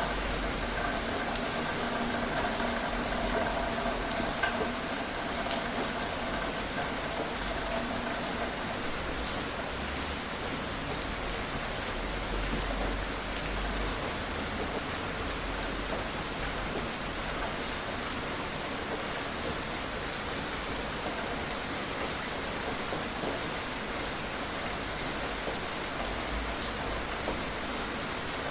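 Steady, gentle rain falling and pattering on surfaces, an even hiss of drops with no thunder. A faint steady hum of several tones lies under it for the first eight seconds or so.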